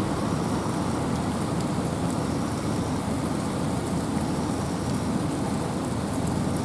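Steady rain falling in a forest, with wind: a dense even hiss and rush, heaviest in the low end, with faint high drip ticks scattered through it.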